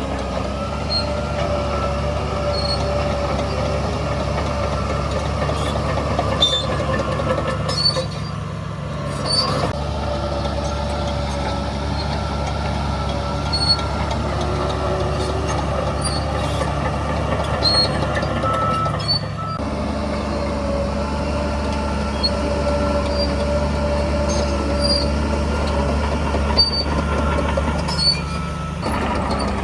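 Diesel engine of a Shantui DH17C3 crawler bulldozer running steadily under work, with sharp metallic clanks now and then. Its note shifts a couple of times.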